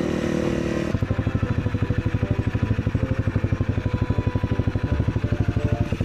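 Supermoto motorcycle engine running, which about a second in settles into an even, rapid idle beat.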